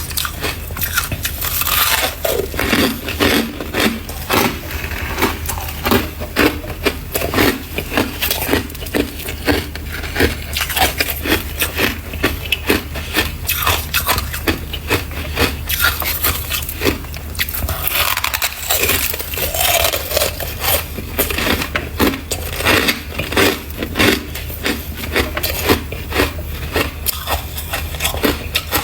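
Close-miked biting and chewing of soft, powdery freezer frost: a dense, irregular run of crunches several times a second, with no pause, over a steady low hum.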